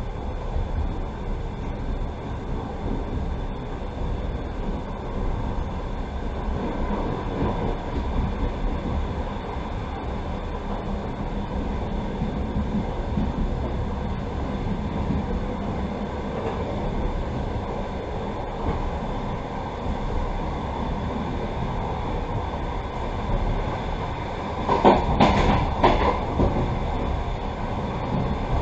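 Passenger train carriage running along the track, a steady rumble of wheels on rails heard from inside the carriage, with a short burst of louder clattering knocks near the end.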